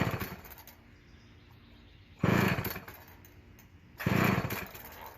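Vintage McCulloch chainsaw being pull-started: three yanks of the recoil starter about two seconds apart, each turning the engine over briefly without it catching and running.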